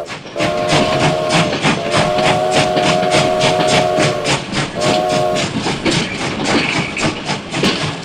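Battery-powered Thomas the Tank Engine toy train playing its steam sound effects: rapid chuffing, about four or five puffs a second, with a steam-whistle chord blowing three times, the second blast about two seconds long.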